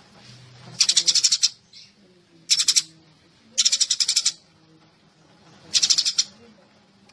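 Sparrow chirping in four quick bursts of rapid, high chirps, each about half a second long, with short pauses between them.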